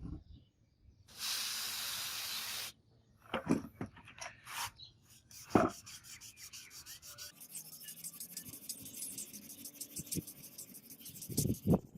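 Sanding on a sword blade: quick, even rubbing strokes fill the latter half. Earlier there is a steady hiss lasting about a second and a half, and there are a few knocks near the middle and again near the end.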